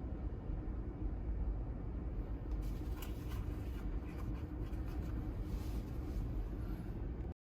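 Steady low rumble of ocean surf and wind, with faint rustling and clicks from about two and a half seconds in. The sound cuts off abruptly at the very end.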